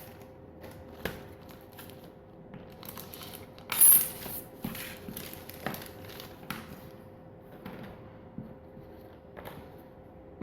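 Small metal parts and tools clinking and tapping during engine assembly work: a scattered series of light knocks, with one brief loud noisy burst about four seconds in.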